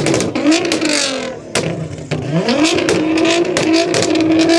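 A performance car's engine revving hard: the pitch drops away and fades, then climbs again about two seconds in and holds at high revs, with sharp cracks from the exhaust.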